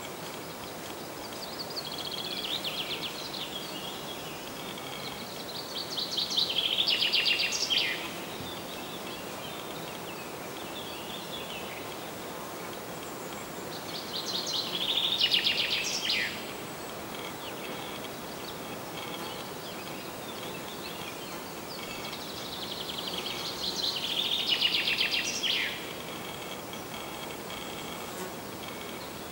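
A songbird singing the same short song again and again, about every eight to nine seconds. Each phrase swells and ends in a quick flourish of notes sweeping downward, over a steady outdoor hiss.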